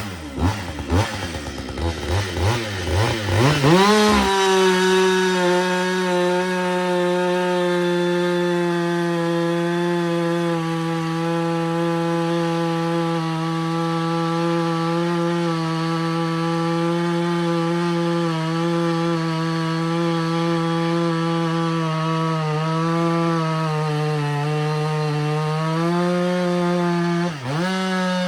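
Husqvarna 562XP two-stroke chainsaw blipped a few times, then held at full throttle for over twenty seconds while cutting through a log, its pitch wavering slightly under load before it drops off at the end of the cut.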